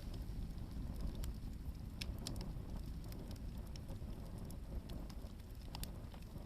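Hardwood firewood burning in a campfire, crackling with scattered sharp pops over a low, steady rumble.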